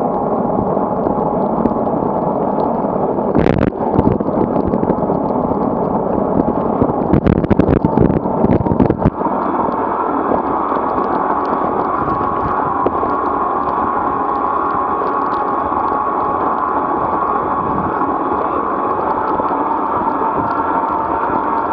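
Steady rushing wind noise on a bicycle-mounted camera riding through typhoon winds, with louder gusts buffeting the microphone about three seconds in and again for a couple of seconds near the middle.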